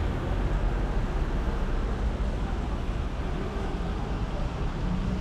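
Steady city street traffic: a low rumble of engines with a hiss of tyres on the road.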